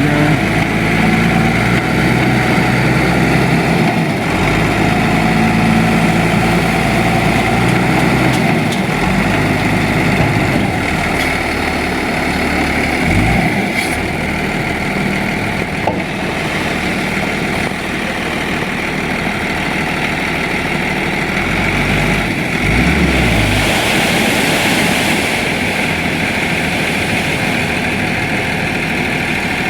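Heavy tipper truck's engine running steadily, with a few changes in its note, as the truck tips a load of crushed-rock aggregate.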